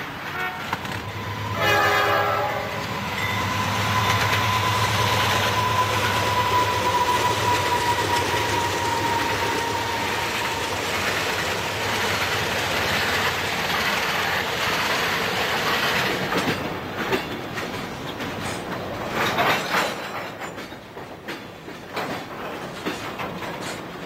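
Diesel-hauled coal train passing close by: a short air-horn blast about two seconds in, then a steady loud rumble of the train and its loaded coal hoppers rolling past, with wheel clatter over the rail joints. The sound eases off over the last several seconds.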